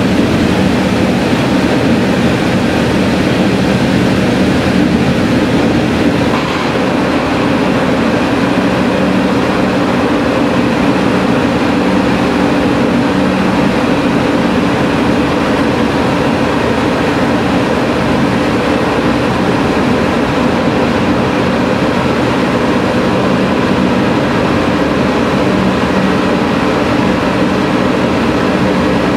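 Sanriku Railway diesel railcar running through a tunnel, heard from inside the car: a loud, steady mix of engine and wheel-on-rail noise, easing slightly about six seconds in.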